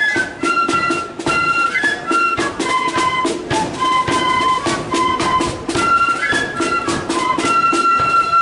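Marching flute band playing a tune: a melody on flutes over steady drum beats.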